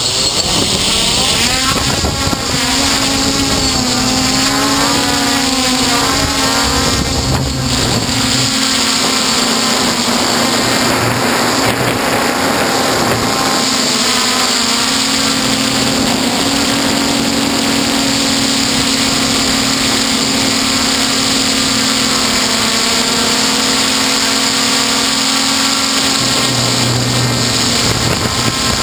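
F450 quadcopter's brushless motors and propellers whirring loudly and steadily, several pitches wavering up and down as the motors change speed.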